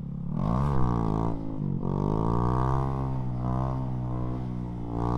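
Honda Grom's 125 cc single-cylinder engine revving hard: the pitch climbs sharply just after the start, drops briefly about a second and a half in, then holds at high revs with slow rises and falls as the bike pulls away.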